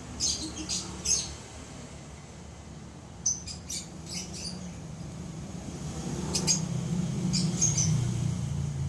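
Pet lovebirds chirping in short, sharp, high bursts, in three or four clusters a few seconds apart.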